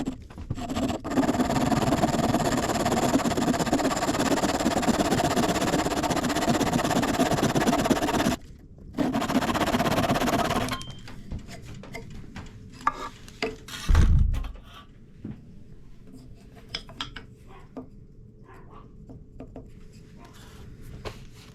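A saw cutting a V notch into the end of a wooden dowel: a steady, rasping cut that breaks off briefly and then stops about eleven seconds in. After it come light clicks and knocks of the wood and saw being handled, and one heavy thump.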